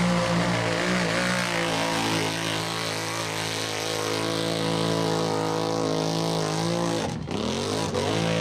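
ATV engine running hard at high, steady revs. About seven seconds in it briefly drops off, then revs back up.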